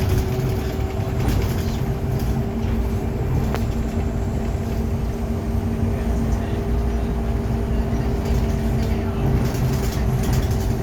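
Scania Omnilink K230UB single-deck bus heard from inside while under way: the 9-litre five-cylinder engine and drivetrain running with a steady low rumble and a steady whine, a second, lower whine joining about a second in, with light rattles from the body.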